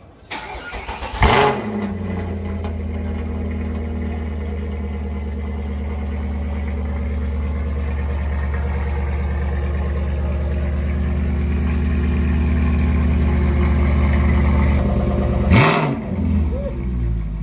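Mercedes-Benz W204 C-Class engine cold-started: the starter cranks briefly and the engine catches with a loud flare about a second in, then idles steadily. Near the end a short burst with a rise and fall in pitch is heard, after which the idle runs lower.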